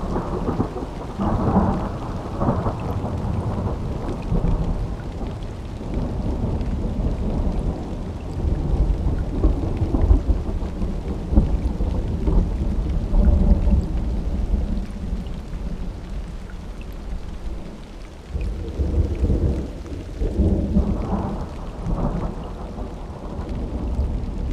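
Summer thunderstorm: thunder rumbling and rolling over steady rain. Louder peals come in the first few seconds and again about twenty seconds in, with a deep low rumble between them.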